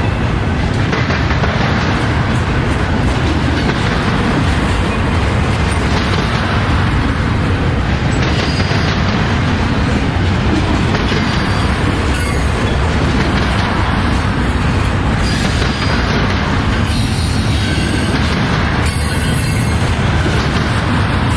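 Freight train cars rolling past at speed: a steady, loud rumble of steel wheels on rail, with faint wheel squeal now and then.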